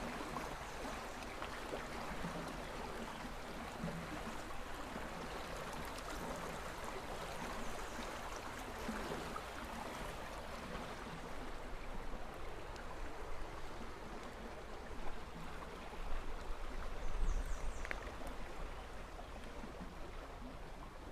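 A stream running: a steady rush of flowing water. A low rumble briefly swells about three-quarters of the way through.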